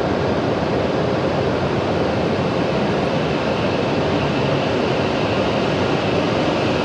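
Hokuriku Shinkansen E7/W7-series train pulling out of the station, a steady rushing noise of the moving train echoing in the enclosed platform hall.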